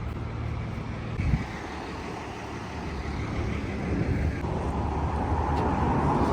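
Motor vehicle noise: a steady low engine rumble, with a wider noise that swells from about four seconds in.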